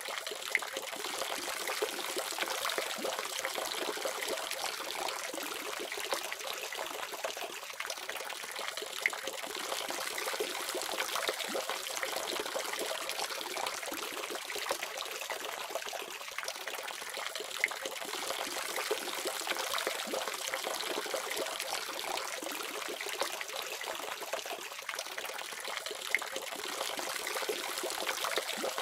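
Water running steadily from a faucet, a continuous splashing trickle with small irregular drips and splashes.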